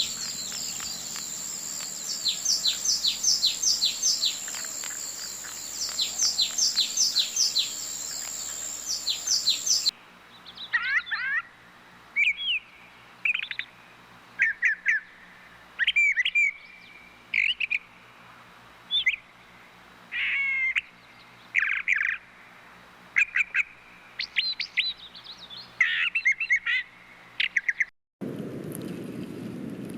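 Birds calling, in spliced recordings: first a quick run of repeated downward-sweeping chirps over a steady high-pitched tone, then, after an abrupt change about ten seconds in, separate short whistled calls and trills with pauses between them. In the last two seconds a steady hiss takes over.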